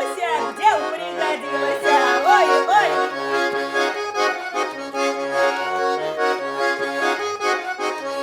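Russian garmon (button accordion) playing a chastushka tune between sung verses, with held chords over a steady alternating bass-button accompaniment.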